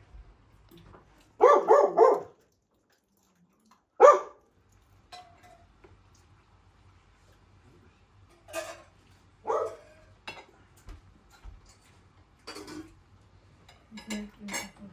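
A dog barking: a quick run of three loud barks, a single sharp bark about two seconds later, then quieter barks every second or two.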